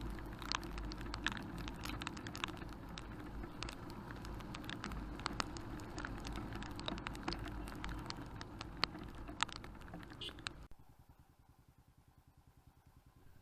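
Muffled steady rumble of a motorcycle riding in rain, with irregular sharp ticks of raindrops striking the action camera's housing. The sound drops out to near silence about three-quarters of the way through.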